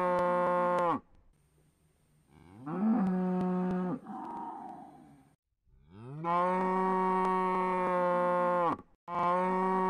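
Cow mooing over and over: long, steady-pitched moos that rise at the start and cut off abruptly, with a shorter, rougher moo about three seconds in.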